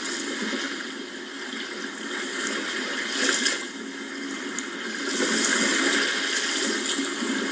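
Sea waves washing ashore, a steady rushing wash that surges briefly about three seconds in and again, louder, from about five to seven seconds in.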